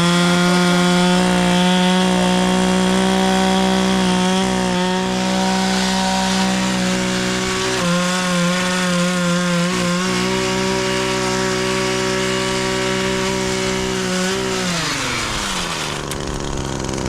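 Chainsaw running at high revs while cutting through wood, dipping briefly twice in the middle. Near the end the throttle is released and the engine falls to idle.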